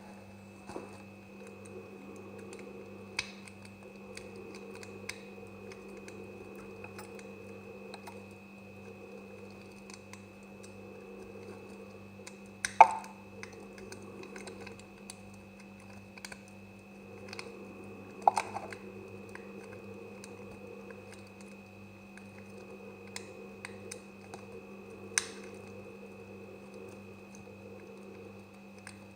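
A knife cutting semi-dry soap, making many small crisp clicks and crackles. A few louder sharp snaps stand out, the loudest about 13 seconds in and another about 18 seconds in. A steady electrical hum runs underneath.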